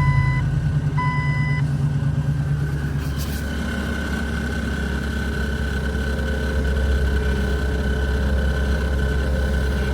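Chevy LS V8 in a Jeep TJ running just after a cold start at about minus 35 degrees, having sat unplugged for a week; oil pressure is slow to build. Two short electronic beeps sound in the first two seconds, and the engine note settles lower about three seconds in.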